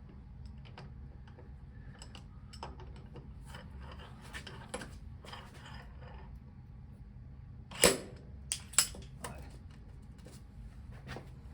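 Glue-pull dent repair on a car body panel: scattered clicks and handling knocks from the dent-pulling tool on the glued pads, with a sharp knock about eight seconds in and two smaller ones just after. The pull fails and the dent does not come out.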